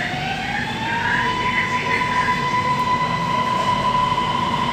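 MRT Blue Line metro train's traction motor whine, rising in pitch over the first second as the train accelerates, then holding one steady high tone over the rumble of the wheels on the track.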